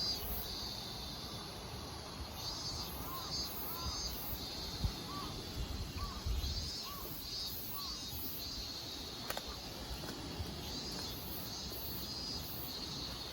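Outdoor summer ambience of insects chirring in repeated high-pitched pulses, with a bird giving short, rising-and-falling call notes about once a second through the middle.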